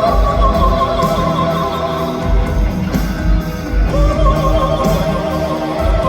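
Live concert music: a male singer's high wordless vocalise in bel canto style, holding long notes, over a steady pulsing bass beat.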